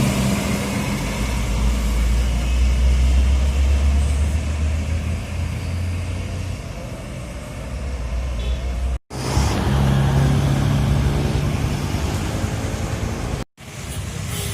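Heavy road traffic with large bus engines running close by, a deep steady engine hum, changing to another engine about halfway through. The sound drops out sharply twice, near the middle and near the end.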